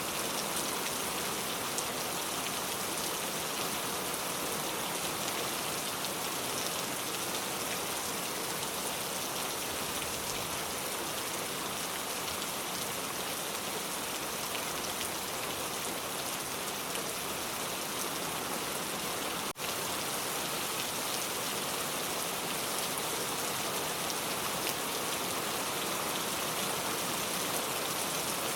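Steady rain falling, an even hiss that holds its level throughout, broken only by a split-second dropout about two-thirds of the way through.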